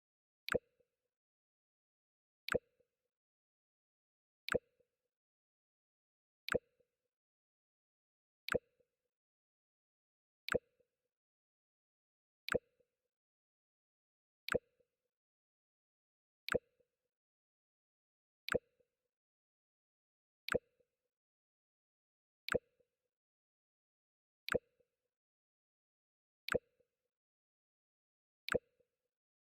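Mac OS X 'Jump' sound effect, played over and over: a very short, sharp click with a brief low pop right after it, repeating every two seconds with silence between.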